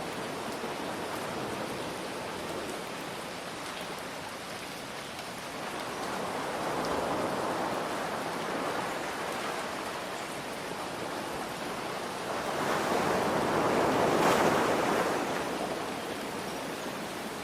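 Ocean waves washing in over a steady hiss of rain, with two slow swells: a smaller one about six seconds in and a louder one about fourteen seconds in.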